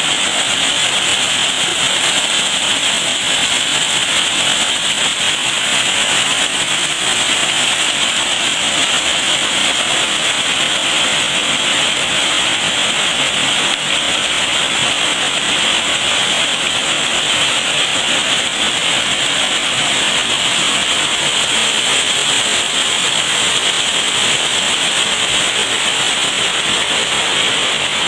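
Waterfall: a loud, steady rush of falling water that never lets up.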